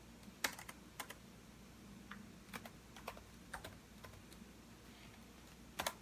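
Typing on a computer keyboard: keystrokes in short, irregular clusters with pauses between, the loudest a quick double strike near the end.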